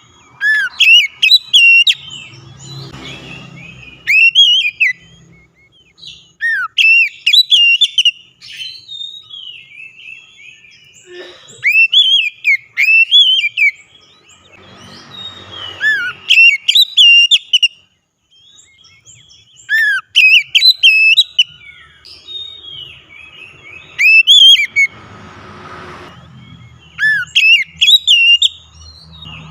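Oriental magpie-robin (kacer) singing loud, clear whistled phrases of quick rising and falling notes. The phrases come in bursts of one to two seconds, separated by gaps of a few seconds.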